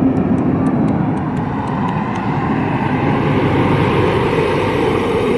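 JCB digger's diesel engine running steadily under work, with faint light ticks repeating about three times a second for the first couple of seconds.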